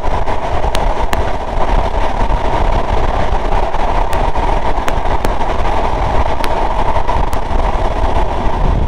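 Sundarban Express passenger train running at speed: a steady loud rumble and rushing noise of the wheels on the rails, with occasional sharp clicks.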